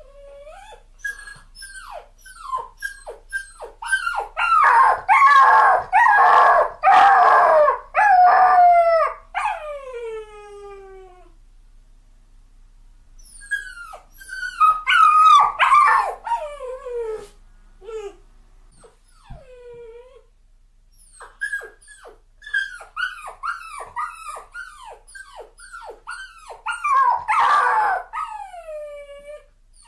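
A dog crying: rapid strings of short, high whimpering yelps, each falling in pitch, in three bouts. Each bout ends in longer drawn-out cries that slide downward.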